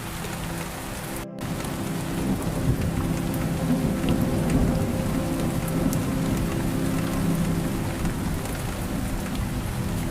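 Steady rain falling, with a low rolling rumble of thunder about two to five seconds in. The sound cuts out completely for a moment just over a second in.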